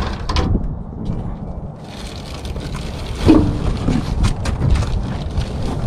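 Cardboard packaging and bumper parts being handled and shifted while a boxed steel bumper kit is unpacked: irregular rustling and scraping with scattered clicks, and a louder knock about three seconds in.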